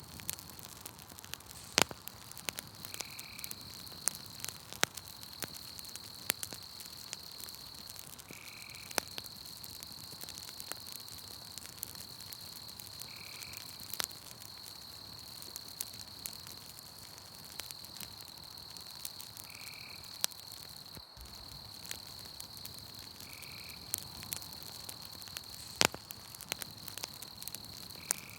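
Campfire crackling with scattered sharp pops, over a steady high-pitched insect trill from the night forest. A short call, of a frog or insect, repeats about every four to six seconds.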